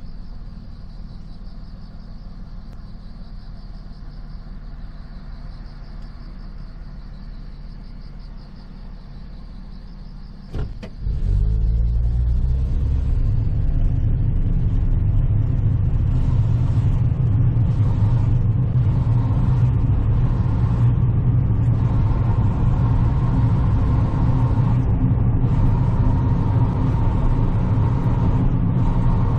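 Car engine and road noise heard from inside the car: a quiet low idle with a faint pulsing high tone, then a knock about ten seconds in. The car then pulls away, the engine note rising, and settles into a loud steady rumble of driving.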